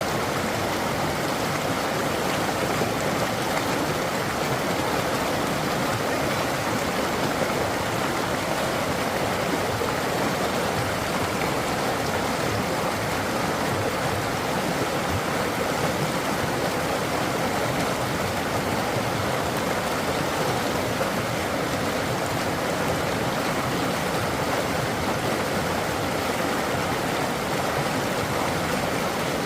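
Natural running water flowing with a steady, even rush.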